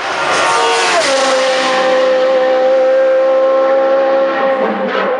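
Race car passing close at full throttle: its engine note drops in pitch about a second in, then holds high and steady. There is a short break in the note near the end.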